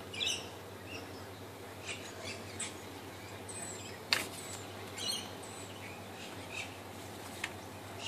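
Small birds chirping in short, scattered high calls. A single sharp click about four seconds in is the loudest sound.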